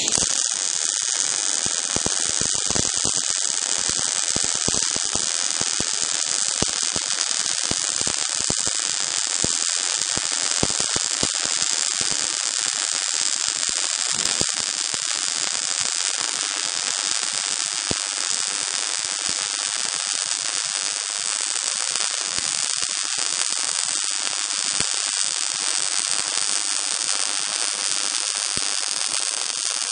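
MIG welding arc laying a fillet weld bead with the push technique: a steady, dense crackling sizzle without a break.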